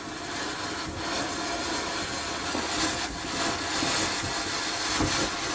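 Firework fountain burning, its spray of sparks giving a steady, rough hiss that grows slightly louder as it goes.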